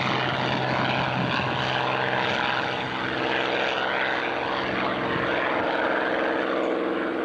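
Rolls-Royce Merlin V12 of a two-seat Spitfire IX running at takeoff power, a steady loud propeller-driven engine drone.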